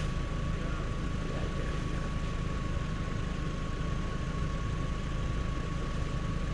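Vehicle engine idling steadily, a low rumble with a constant high thin tone over it.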